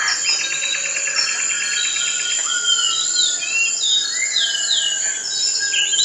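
Birds calling over a steady high insect hum: a fast rattle lasting about two seconds, then a run of short falling chirps.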